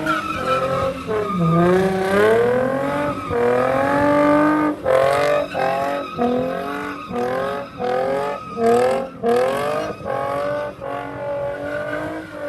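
A car's engine revving hard and repeatedly while its tires screech in a skid. The pitch climbs and drops again and again, in quicker rev-and-lift cycles from about halfway through.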